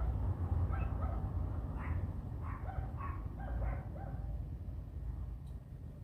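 A series of short, high pitched animal calls, one to three a second, thinning out near the end, over a steady low rumble.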